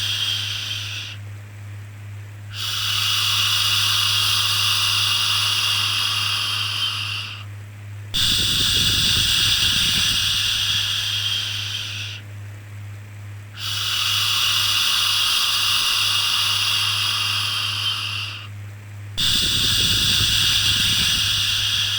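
Long 'shhh' shushing sounds for soothing a baby, each held about four to five seconds and repeated after short pauses, over a steady low hum.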